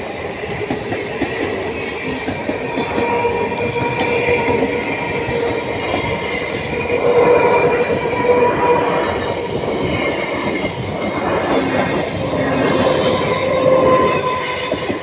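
Suburban electric multiple unit (EMU) train running along the track: a continuous rumble and rattle of wheels on rails under a steady whine, swelling louder about halfway through and again near the end.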